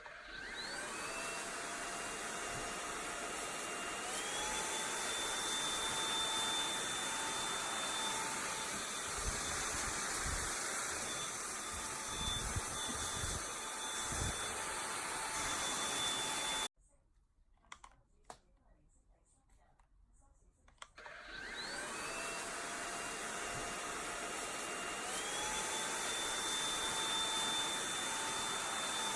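Samsung POWERbot R7040 robot vacuum running: its motor spins up with a rising whine over the first few seconds, then runs steadily until it cuts off suddenly about 17 seconds in. About four seconds later it starts again and spins up with the same rising whine.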